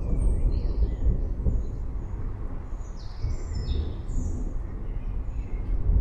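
Low, continuous rumble of distant thunder with forest birds chirping over it: short high chirps and quick whistled calls, thickest about three to four seconds in.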